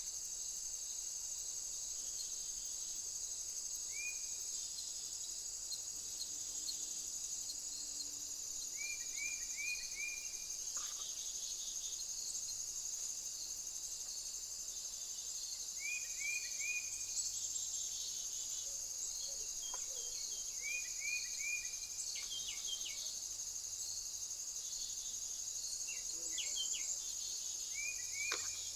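Steady high-pitched insect chorus, with short chirps in quick runs of three or four a few times over it.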